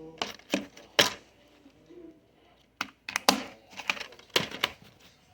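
Plastic DVD cases being handled, giving a string of irregular sharp clicks and knocks.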